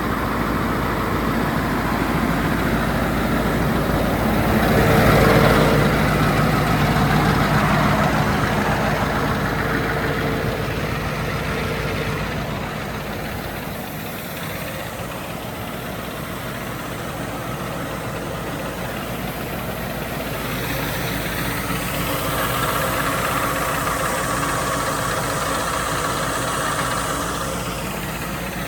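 Scania R520 truck's V8 diesel engine idling steadily, growing louder for a few seconds about five seconds in and again near the end.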